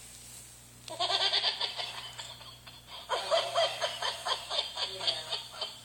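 A puppy making rapid, laugh-like pulsed sounds in two bouts: a short one about a second in, and a longer one from about three seconds that runs for a couple of seconds.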